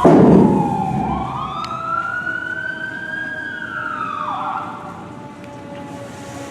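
Fire engine siren wailing in one slow cycle: the pitch climbs about a second in, holds high, then drops sharply a little after four seconds. A loud low rumble comes at the very start.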